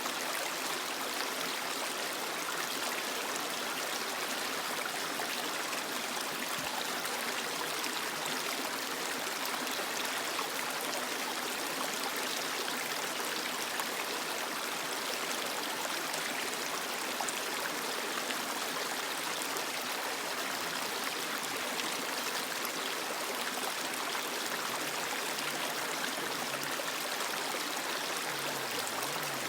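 Creek water running over rocks, a steady rushing with a high, hissy splash and no breaks.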